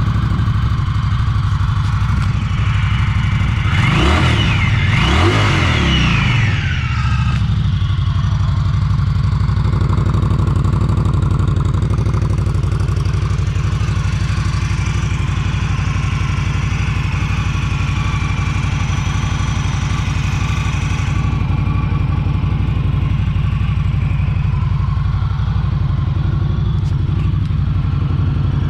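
2019 Indian Scout motorcycle's liquid-cooled V-twin engine running just after start-up. It is revved twice a few seconds in, then settles to a steady idle.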